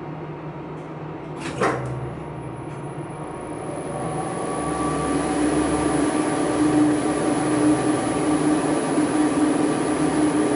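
Elevator machine-room machinery: a sharp clunk about one and a half seconds in, then the sound swells over a couple of seconds and settles into a steady running hum with a high thin whine over it.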